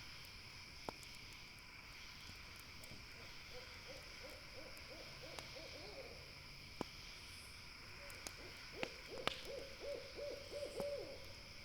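An owl calls twice, each call a quick trilled run of short hooting notes, the second louder. Sharp pops of a crackling campfire are scattered throughout over a steady high hiss.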